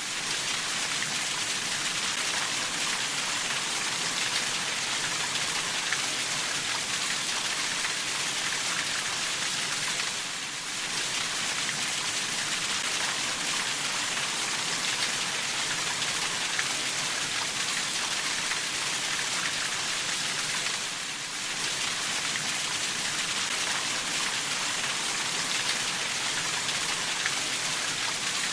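Steady rainfall, a dense even patter of drops on surfaces. It dips briefly in level twice, about ten and twenty-one seconds in.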